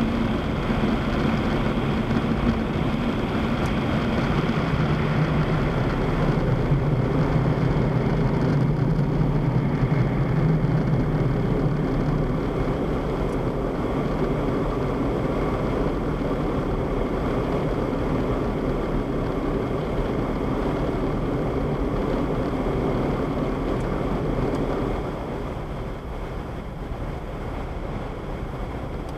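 Automatic car wash machinery running around the car, heard from inside the cabin: a steady rushing noise with a low hum, stronger for the first dozen seconds and dropping in level about 25 seconds in.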